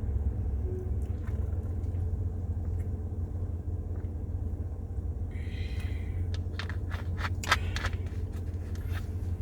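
Steady low rumble, with a short hiss a little past halfway and several faint clicks and taps in the second half.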